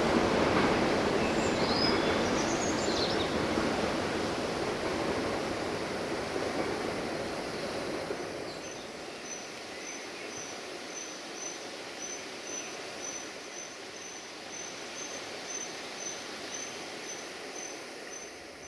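A passing train's rumble fading away steadily as it recedes, leaving a quiet canyon background. A bird then repeats a short, high chirp about two to three times a second.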